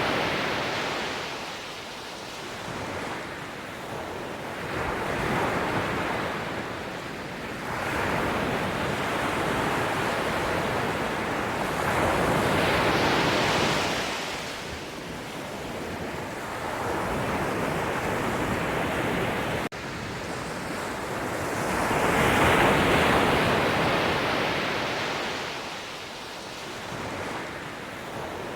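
Sea waves breaking and washing ashore, the surf swelling and ebbing every few seconds, with a momentary break in the sound about two-thirds of the way through.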